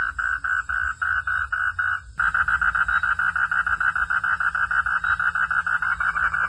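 A chorus of frogs calling at night in steady rhythmic pulses, at about three or four pulses a second. About two seconds in, the sound breaks off abruptly and resumes with faster pulsing, about twice the rate.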